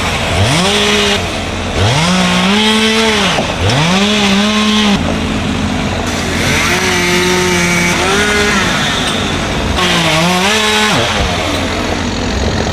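Chainsaw engine revved up to full throttle and let back down in five repeated bursts, each lasting one to two seconds, the fourth held longest.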